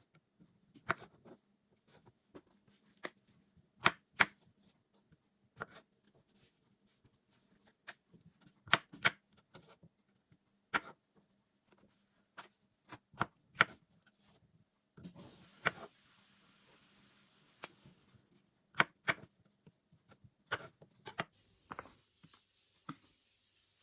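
Irregular light clicks and knocks of small objects being handled, under a faint steady hum. A soft steady hiss comes in about two-thirds of the way through.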